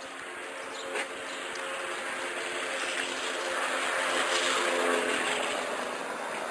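A motor vehicle passing close by: its engine sound grows louder, peaks about four to five seconds in, then begins to fade.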